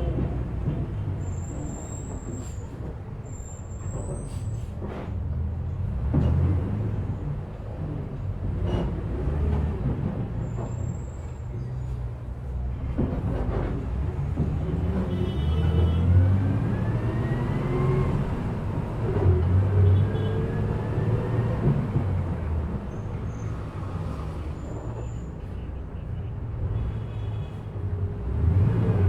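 A passenger bus travelling, heard from inside: a steady low engine rumble with knocks and rattles from the body. There are brief high squeaks in the first few seconds, and a whine rises in pitch from about halfway through as the bus picks up speed.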